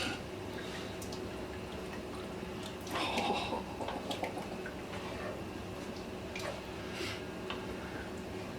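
A spoon stirring and scraping in a pot of thickening gravy coming to a boil, a few soft scrapes and clinks, over a steady low hum.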